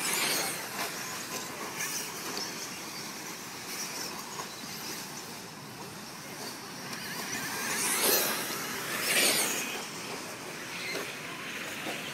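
Electric 1/10-scale off-road RC trucks racing: a steady wash of electric motor whine and tyre noise, with louder swells as cars pass close at the start and about eight and nine seconds in.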